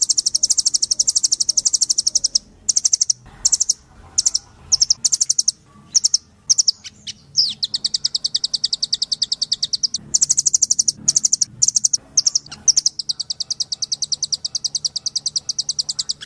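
Blue nuthatch calling: long, rapid trills of high, evenly spaced notes, broken into shorter bursts in the middle with one falling note, then running on steadily again.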